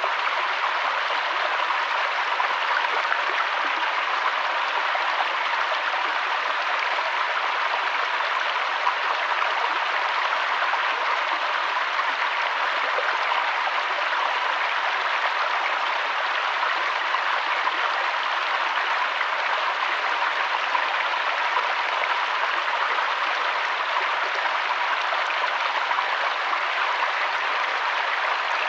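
River water flowing, a steady even rush with no pauses or changes.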